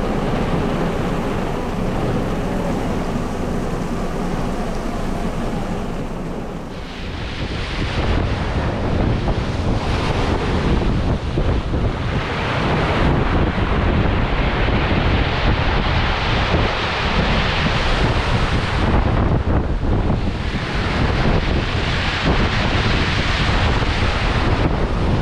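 Strong wind buffeting the microphone: a steady rushing noise that turns heavier and deeper about seven seconds in, then swells and eases in gusts.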